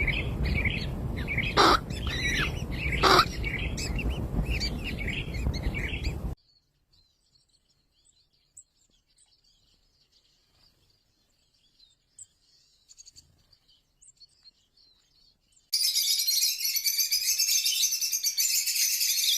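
Birds chirping and calling over a noisy background, with a few sharp louder calls; about six seconds in this cuts to near silence with faint high chirps. Near the end, dense high-pitched chattering starts abruptly.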